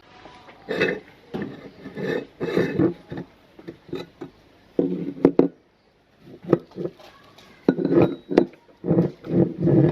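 Irregular clinking and knocking of metal and dishware being handled, with a few sharp clicks.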